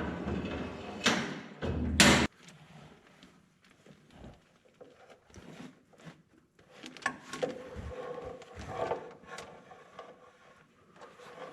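Clunks and knocks of a new hydraulic hose and its fittings being handled and worked into place on an excavator: a few loud knocks in the first two seconds, then faint scattered clicks and small knocks.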